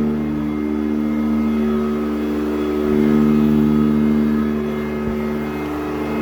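Sanitaire SC899 commercial upright vacuum cleaner running steadily on carpet, its motor giving a steady, even hum whose tone shifts slightly as it works.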